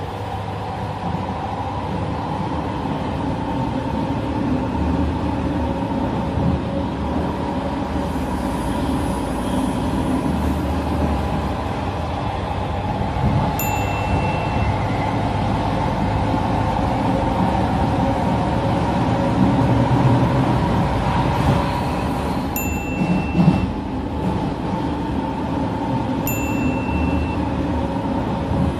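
Metro train running, heard from inside the carriage: a steady rumble and hum. Three short, bright chime-like tones sound over it, one about halfway through and two near the end.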